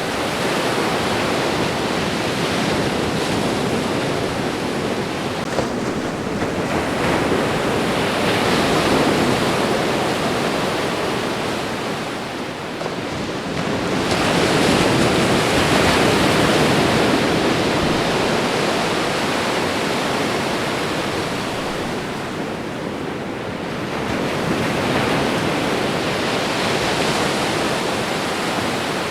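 Ocean waves washing onto a shore: a continuous rushing noise that swells and falls back slowly, with three surges.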